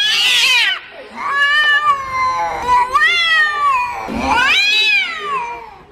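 A cat giving four long, drawn-out meows one after another, each rising and falling in pitch, the last one fading away.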